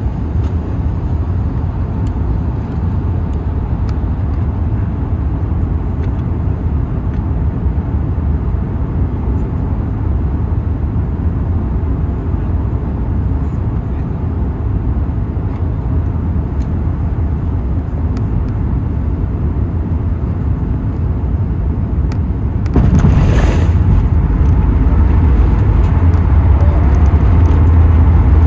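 Steady low rumble of an Airbus A380 in motion, heard inside the cabin. About 23 seconds in comes a brief rushing noise, after which the rumble is louder.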